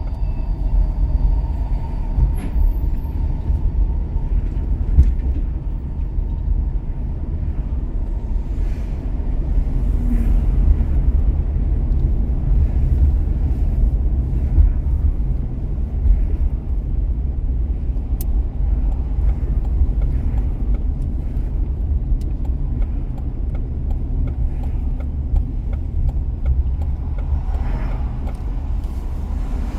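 Car driving on city streets: a steady low rumble of engine and road noise with no sudden events.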